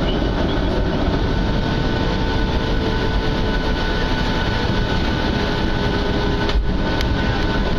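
Boeing 737 jet engines running, heard from inside the cabin: a steady rumble with a few held whining tones over it.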